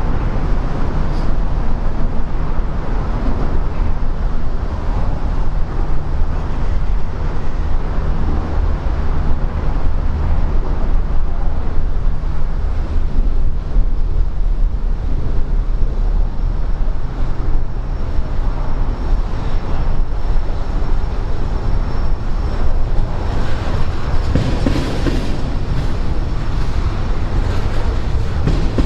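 Freight train backing slowly: a diesel locomotive's steady low rumble with railcar wheels clacking over the rails. A faint high whine, typical of wheel squeal, comes in about halfway through.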